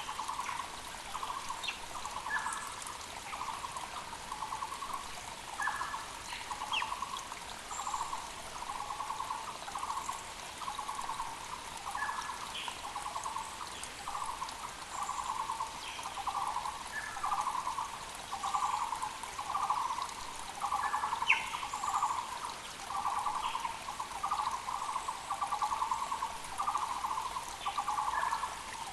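Muller's barbet singing, one low trilled note repeated steadily, close to one a second, over the even hiss of a mountain creek. Other birds add short high chirps now and then.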